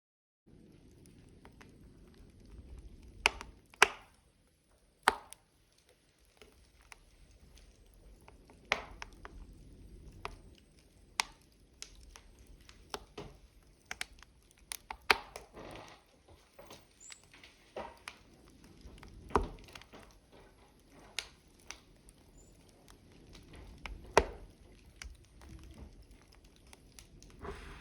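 Burning wood logs crackling, with sharp, irregular pops and snaps over a faint low hiss of the flames.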